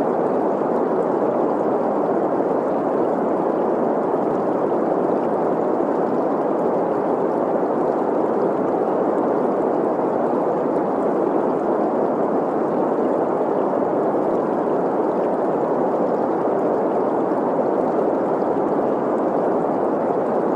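Steady green noise, a smooth hiss centred in the middle range, blended with the flow and gurgle of a stream. It holds an even level throughout, with no distinct events.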